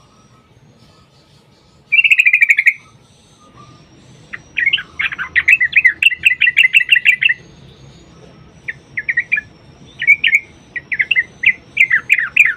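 Yellow-vented bulbul singing: a short fast trill about two seconds in, then long runs of rapid chattering notes, one in the middle and another building towards the end.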